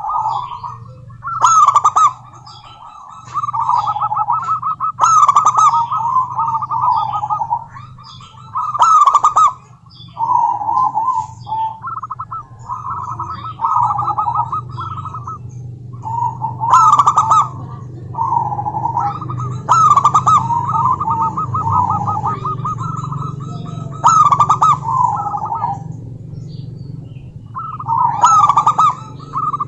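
Zebra dove (perkutut) calling: phrases of rapid, rolling cooing notes about a second or two long, repeated with short pauses, over a low steady hum.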